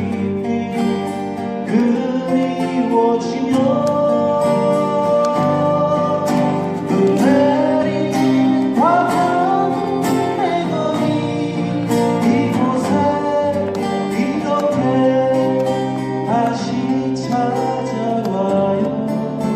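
Live Korean folk song played by an acoustic-guitar band: an instrumental passage with a lead melody, some of its notes sliding up, over strummed guitar chords.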